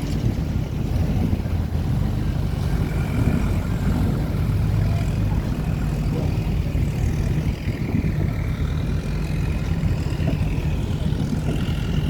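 A river tour boat's engine running steadily, a low drone heard from on board.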